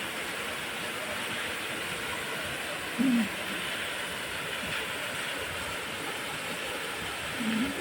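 Small waterfall rushing steadily, with two brief low sounds about three seconds in and near the end.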